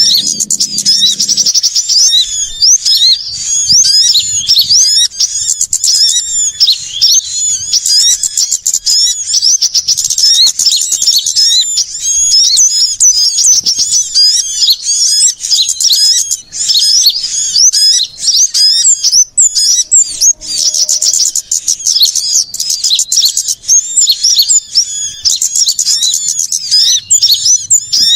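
Bird-luring recording of a dense, loud chorus of small songbirds, many rapid high chirps and trills overlapping without a break.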